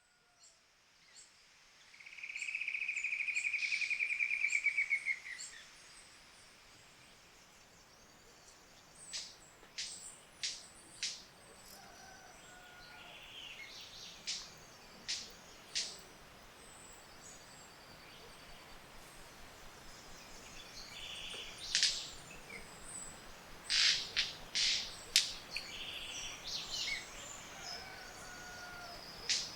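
Tropical forest birds singing at dawn: a loud, rapid trill that falls slightly in pitch for about three seconds near the start, then scattered sharp, snapping calls in clusters with short whistled notes between them.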